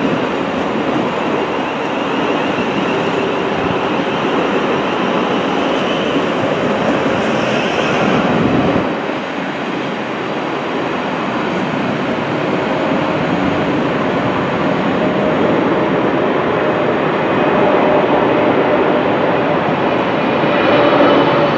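Thameslink Class 700 electric multiple unit running past close by, a continuous rush of wheels on rail and running gear. The level dips briefly about nine seconds in, and a faint steady hum sits under the noise in the second half.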